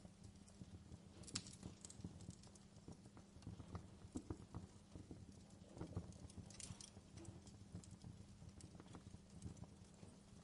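Fireplace crackling quietly: irregular small pops and snaps of burning wood over a faint steady low hum.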